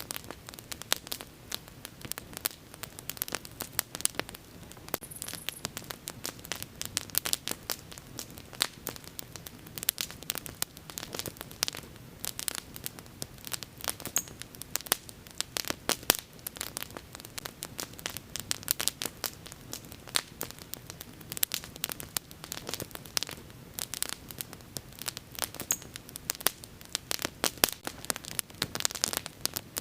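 Wood fire crackling: dense, irregular sharp pops and snaps over a low steady hiss of burning.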